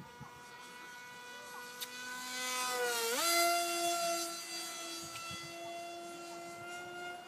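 Brushless electric motor and propeller of a Skyfun RC jet whining in flight. About three seconds in, the whine jumps up in pitch and gets loudest, then holds steady at the higher pitch.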